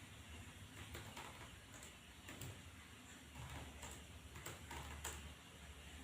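Computer keyboard keys being pressed during typing practice: faint, irregular clicks, roughly one or two a second.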